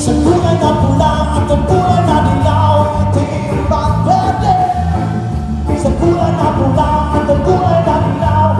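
A live band playing through a PA system, with a singing melody over a steady bass and drum beat.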